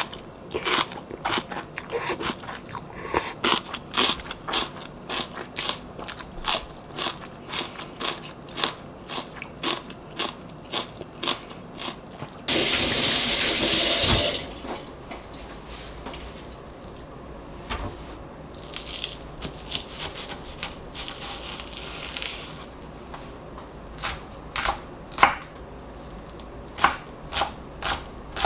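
Kitchen food-prep sounds: a long run of irregular sharp knocks and clicks, then a brief loud rush like a running tap about halfway through. Fainter hissing and a few more knocks follow near the end.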